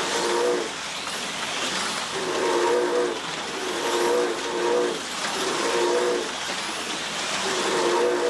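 HO-scale slot cars running laps, their small electric motors whining over a steady hiss. The whine swells each time the cars come past, about every one and a half to two seconds.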